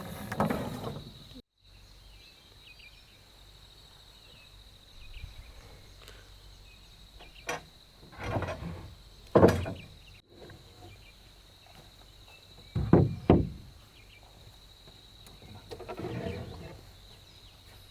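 A few separate dull knocks and thuds of wooden parts being handled and fitted, the loudest about halfway through, over a faint steady high drone.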